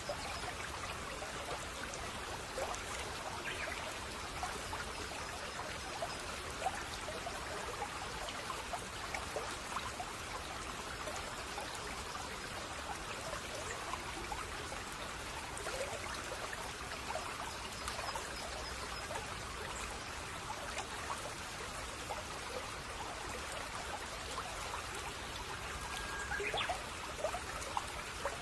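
Shallow brook (せせらぎ) babbling and trickling steadily over stones, with many small gurgles and drips.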